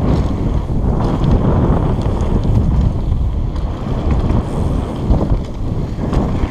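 Wind buffeting the microphone of a camera on a downhill mountain bike, with the bike rattling and knocking over rough, rocky ground.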